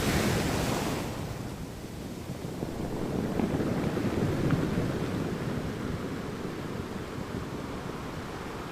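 Ocean surf: the hiss of a breaking wave dies away about a second in, then a low rumbling swell builds and the surf runs on steadily.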